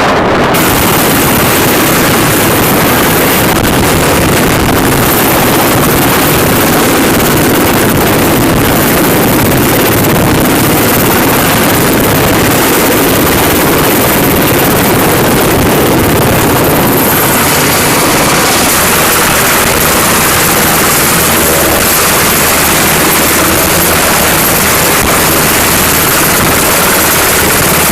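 Aircraft engines running loud and steady, a dense roar with a thin high whine above it. About two-thirds of the way through the hiss eases and a low steady hum comes in.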